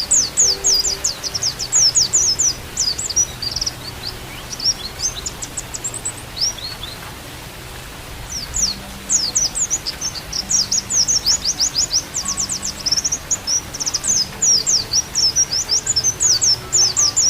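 White-eye (pleci) singing in long runs of rapid, high chirps and quick sweeps, pausing briefly in the middle. Beneath the song sit faint steady low tones and a soft hiss from a mixed-in backing track.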